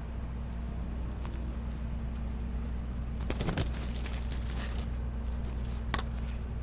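Footsteps crunching on the ground, sparse at first and denser from about halfway, over a steady low rumble.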